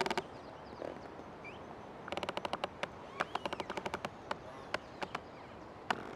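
Old tree creaking: a ratcheting creak made of rapid clicks about two seconds in, lasting a second or so, then a few single creaks. Faint bird chirps in the background.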